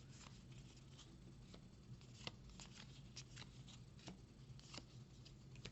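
Faint clicks and light rustles of Magic: The Gathering cards being flipped and slid one by one while going through a booster pack, over a low steady hum.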